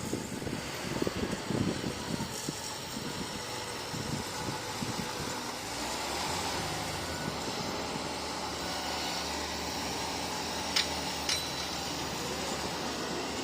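Bulldozer's diesel engine working: uneven rumbling at first, settling into a steady drone. Late on, two sharp metallic clinks half a second apart.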